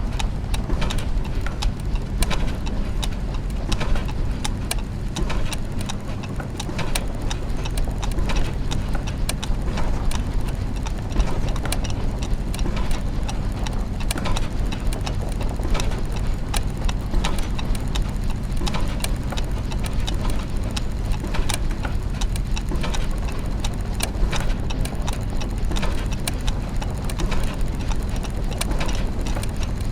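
Clockwork gears and mechanisms ticking and clicking densely and unevenly over a steady low machine hum.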